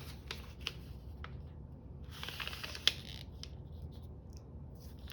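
Strip of paper being cut with scissors and handled: scattered light clicks, a short rustle about two seconds in, and one sharper click just before three seconds.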